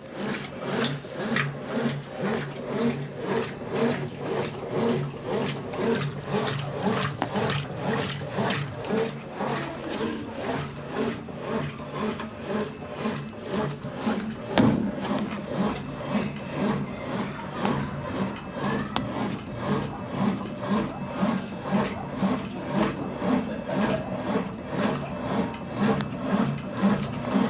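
Consul Facilite 10 kg top-loading washing machine agitating, its original factory drive mechanism swinging the agitator back and forth in an even, repeating rhythm.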